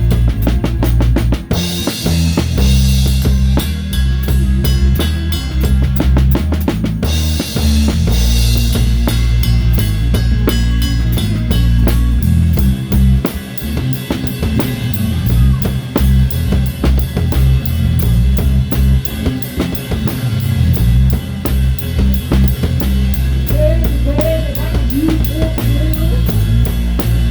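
Live rock band playing, heard close to the drum kit: a steady, driving beat of kick, towel-damped snare and cymbals over bass guitar and electric guitars. Cymbal crashes ring out about two seconds in and again about seven seconds in.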